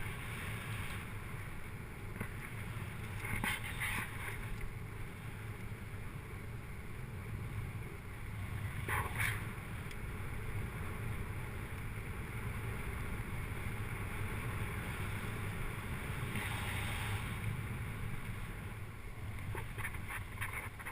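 Wind rumbling over a helmet- or bike-mounted action camera's microphone during a bike ride, with a few short rattles and clicks, a cluster of them near the end.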